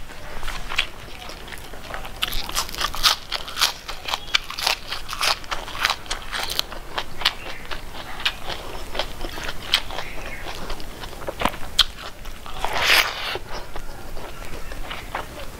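Close-miked chewing of a mouthful of food, with many sharp, irregular crunches and wet clicks of the mouth, and one longer, louder burst a little before the end.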